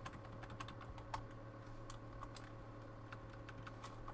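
Faint, irregular clicks and taps of trading cards being handled and shuffled through, over a steady low electrical hum.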